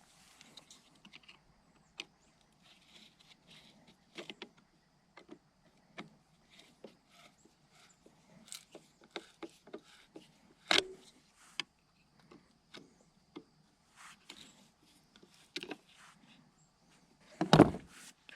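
Small metal carburetor parts and hand tools being handled during reassembly: scattered light clicks and taps, with a sharper knock about eleven seconds in and a louder clatter near the end.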